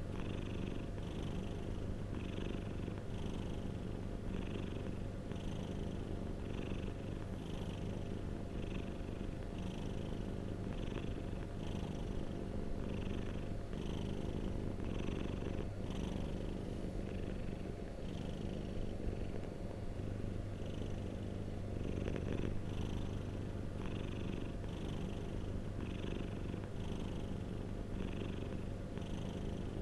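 Domestic cat purring steadily, close up, with a regular rhythmic pulse about every three-quarters of a second.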